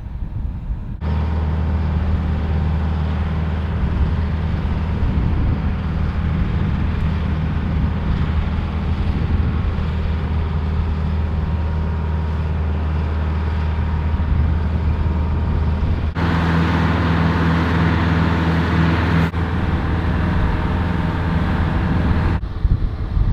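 Steady drone of a motor vehicle's engine and road noise while driving, changing abruptly a few times.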